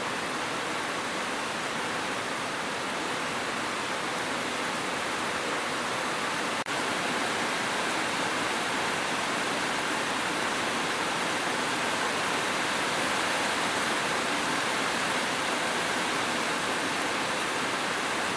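Steady, even hiss of rain, a continuous wash of falling-water noise with no separate drops standing out. There is a momentary dip in level about seven seconds in.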